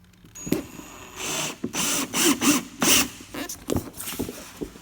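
Hand work on the plastic air-filter housing: a run of short scraping and rubbing bursts with a few sharp clicks and a faint squeak, as a screen is pressed and twisted into place over the filter.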